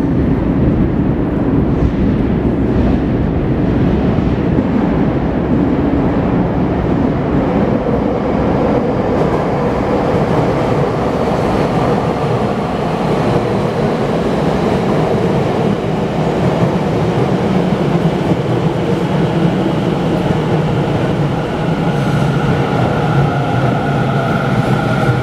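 Tokyo Metro 10000-series subway train running into an underground station platform: a loud, steady rumble of wheels and running gear. Near the end, whining tones come in over the rumble as the train slows to stop.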